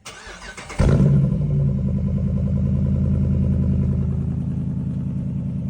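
Mopar car engine cold-starting after sitting in the cold: under a second of cranking on the starter, then it catches with a sudden loud burst and runs on at a steady idle that eases off slightly.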